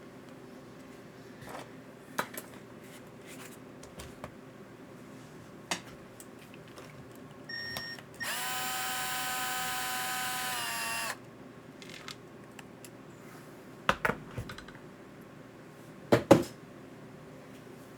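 Small electric motor whining steadily for about three seconds in the middle, its pitch dropping slightly as it stops, amid scattered clicks and knocks of parts and tools being handled.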